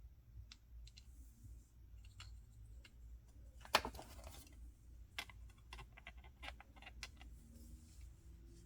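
Small plastic toys and packaging being handled: a scatter of light clicks and taps, with one louder snap about three and a half seconds in followed by a brief rustle.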